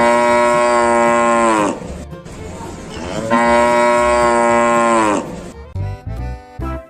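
Cow mooing twice: two long, drawn-out calls of about a second and a half each, the pitch dropping at the end of each, over light background music.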